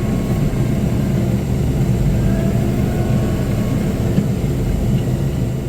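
Compact tractor's diesel engine running steadily, a continuous low drone.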